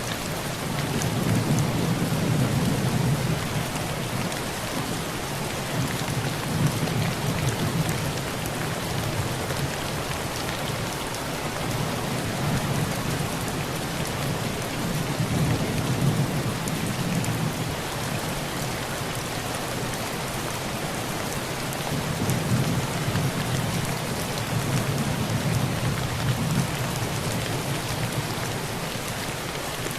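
Heavy rain falling on a tin roof, a steady hiss, with low rolls of thunder swelling and fading several times.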